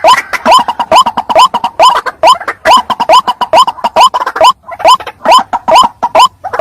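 White-breasted waterhen's 'ruak' call as a recorded lure call: short upward-sliding notes repeated about three a second, with a brief pause a little past halfway.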